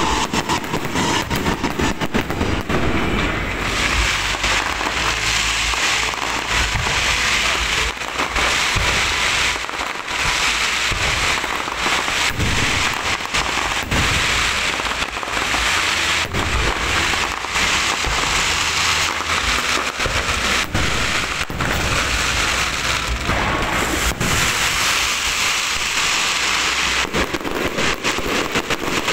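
Fireworks and firecrackers going off in a rapid, unbroken string of bangs and crackles, with sharper single reports scattered through it.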